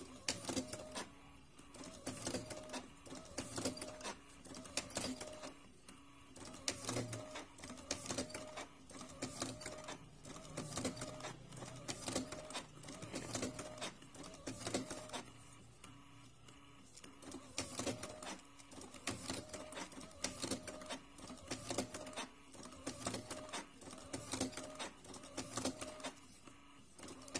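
Makermatik electric cigarette-rolling machine with a tobacco hopper running, its motor whirring and clicking in a steady repeating cycle as it rolls cigarettes.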